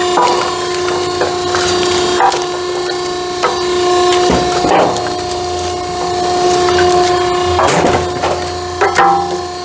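Split firewood being pulled apart by hand and tossed down: scattered wooden knocks, with a longer splintering crackle near the end. A steady machine hum with a pitched tone runs underneath.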